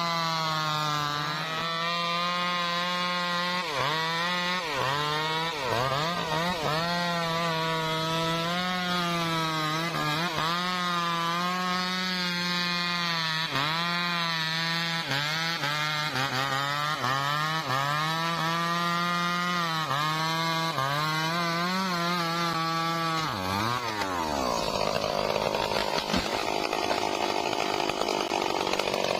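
Stihl MS 382 two-stroke chainsaw at high revs cutting through rain tree (trembesi) wood. The engine speed sags and recovers every second or two as the chain bites under load. About 24 seconds in the revs drop away sharply as the throttle is let off.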